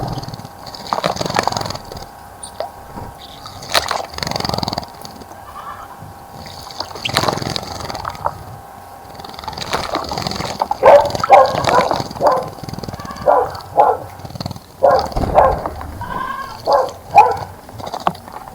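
An animal calling in a series of short, loud calls, about two a second, through the second half, after a few sudden noisy sounds earlier on.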